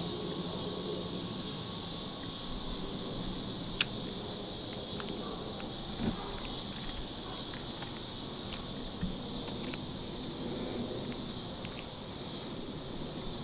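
Insects buzzing steadily in a high, even band, with a few light clicks and taps over it; the sharpest click comes nearly four seconds in.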